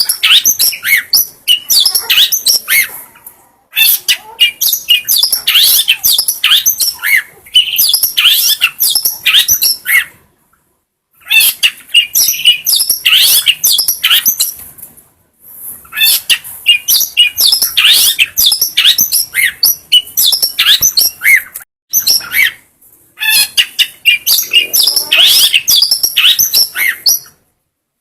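Long-tailed shrike (cendet) singing: a fast, dense stream of high chirps, trills and harsh notes in phrases of a few seconds, broken by sudden short silences.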